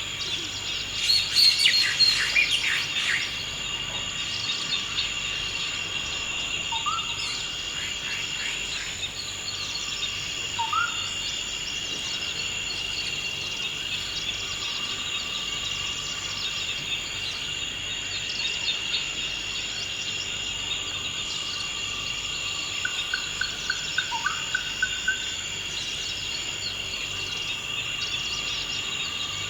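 Continuous high-pitched drone of chirring insects, with forest birds calling over it. A loud flurry of chirps comes about a second in, short rising whistled notes follow a few times, and a quick trill sounds near the end.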